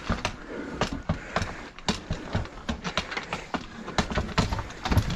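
Irregular knocks, taps and rustling in and around a bed's box spring, a few sharp strikes a second, as someone bangs to drive a hiding dog out of a corner.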